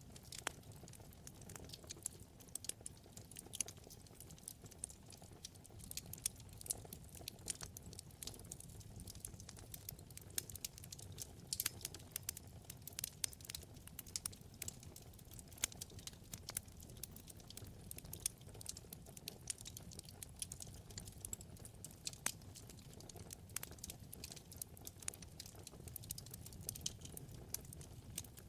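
Wood fire burning in a fireplace: many quick, irregular crackles and snaps over a soft, steady low rumble of flame.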